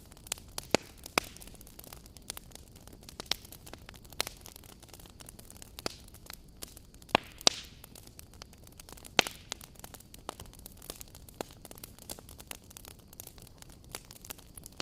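Wood fire crackling: irregular sharp pops and snaps over a steady low hiss, the loudest pops about seven and nine seconds in.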